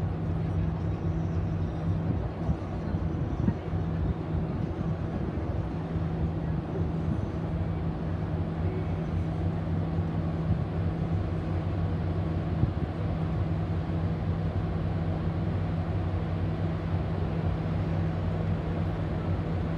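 Steady low drone of a cruise ship's engines and machinery: two constant low hum tones over a rumbling noise, with some uneven low buffeting a few seconds in.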